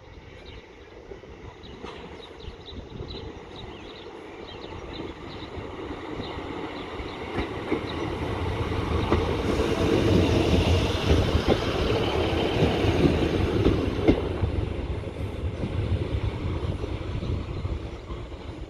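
Diesel multiple unit train running into the platform. Its engine and wheels on the rails grow louder over several seconds, are loudest as the coaches pass close by about ten seconds in, then ease off as it draws along the platform.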